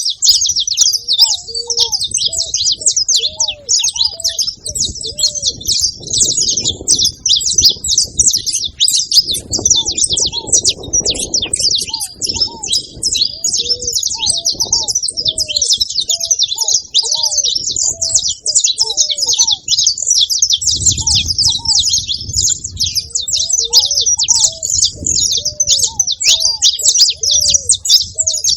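A group of saffron finches chirping and singing together in a dense, continuous chatter of rapid high notes. Underneath, a much lower-pitched bird call repeats in short arched notes.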